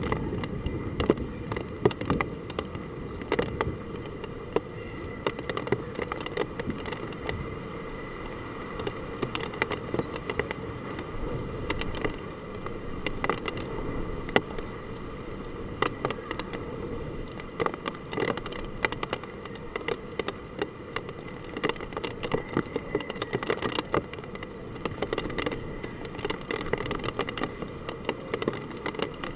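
Heavy typhoon rain with wind, a steady wash of noise dotted with many irregular sharp ticks of drops striking a hard surface.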